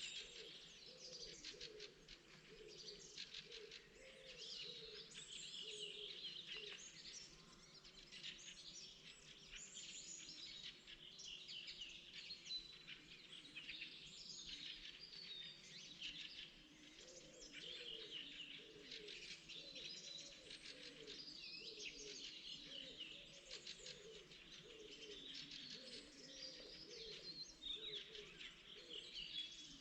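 Faint spring birdsong: several songbirds chirping and trilling in overlapping phrases without a break, with lower wavering calls underneath.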